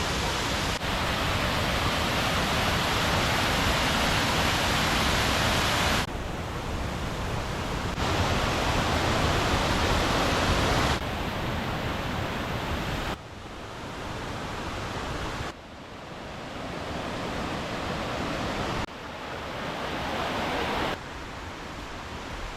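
Steady rush of a waterfall's falling water, in a string of short clips whose loudness jumps abruptly at each cut.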